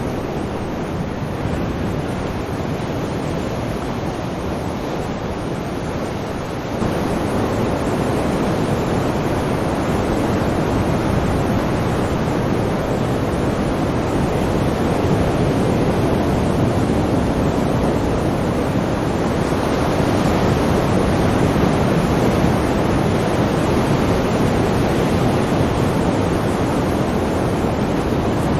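Sea waves breaking and washing on a shore: a continuous rushing surf with no distinct breaks, which grows suddenly louder about seven seconds in.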